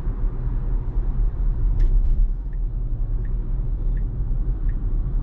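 Road and tyre noise inside a Tesla's cabin while driving: a steady low rumble. From about halfway in, the turn-signal indicator ticks faintly and evenly, about once every 0.7 s, because the car is signalling a lane change.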